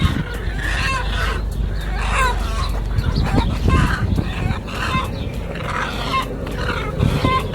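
A flock of chickens clucking, with many short calls overlapping and repeating irregularly, over a steady low rumble.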